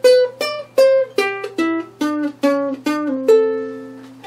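A plucked string instrument playing a short single-note melody as a song's intro, about two or three notes a second, ending on a note held for about a second.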